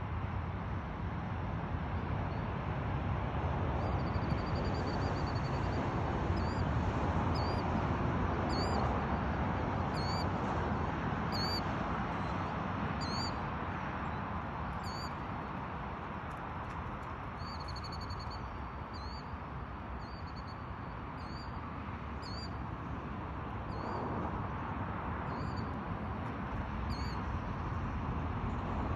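A small bird calling over and over: short high chirps about every second and a half, with a longer trill twice. Steady background noise runs underneath.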